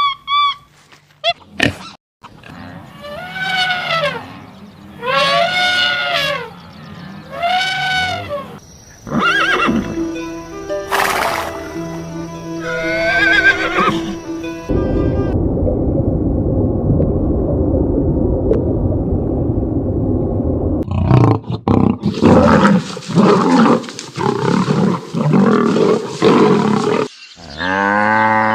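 A string of different animal calls, one after another, with music under them: three arched, pitched calls early on, then a long rough roaring stretch and a run of short growling calls later, and another pitched call at the very end.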